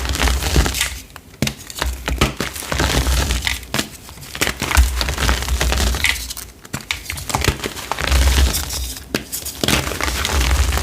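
Compressed gym chalk discs being crushed, a gritty crunching and crackling that comes in bursts with short pauses between them, over low dull thuds.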